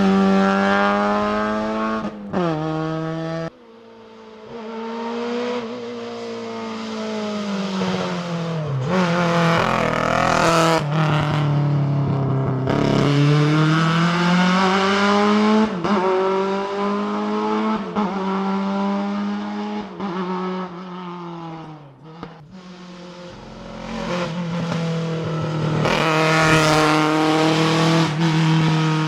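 Rally car engines revving hard on a sprint stage, the pitch climbing and dropping again and again through gear changes and lifts. Several passes are cut together, with abrupt changes a few seconds in and again about two-thirds of the way through.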